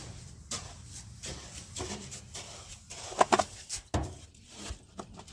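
Irregular scraping and knocking of a scoop working oats out of a grain seeder, with a louder run of clicks about three seconds in and a sharp knock just after.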